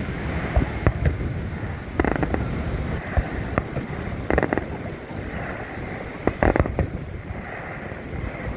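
Aerial fireworks going off: a scattered series of booms and sharp cracks at irregular gaps, with a louder cluster about two-thirds of the way through.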